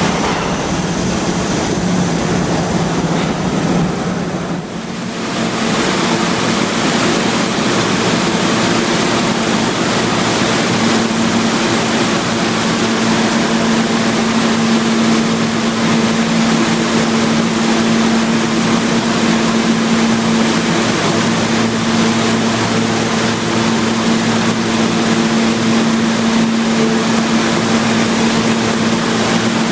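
New York City subway train running, a loud steady rumble and rush of wheels on rail with a steady motor hum; the noise dips briefly about four seconds in, then carries on.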